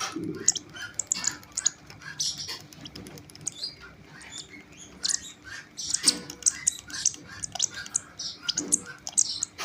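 Baby lovebirds chirping while they feed: a fast, irregular stream of short, high cheeps.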